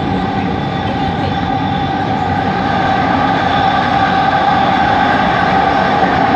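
Kelana Jaya Line metro train running, heard inside the carriage: the linear induction motor's steady whine sits over rumbling wheel and running noise, and the whine grows a little louder about halfway through.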